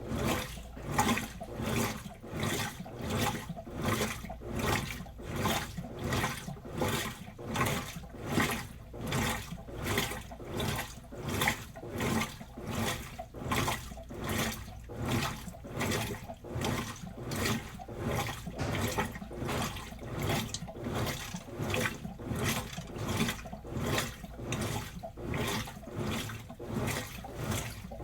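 Washing machine in its wash cycle, the drum churning the clothes and water in a steady rhythmic slosh, about one swish every three-quarters of a second.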